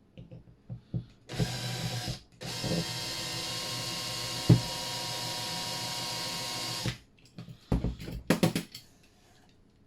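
Electric drill drilling out the rivet that holds the base of a diecast model car: a short burst, then a steady run of about four seconds that stops, with one sharp knock partway through. A few clicks of handling follow near the end.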